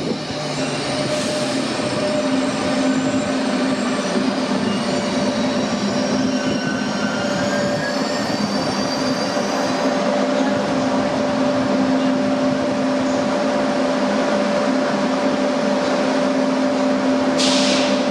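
Train moving at a station platform: a steady mechanical hum with rumbling noise, and thin high wheel squeal in the first half. A short hiss comes near the end.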